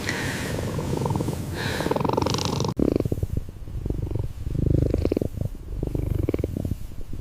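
A cat purring, the purr swelling and fading in bouts, with a brief break about three seconds in.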